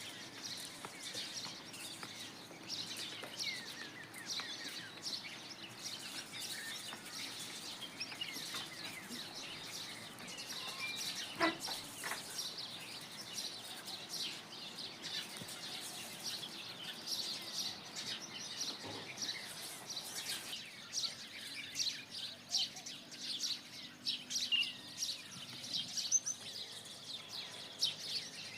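Many small birds chirping and calling together: a dense chorus of short, high chirps that keeps on throughout, with one louder call near the middle.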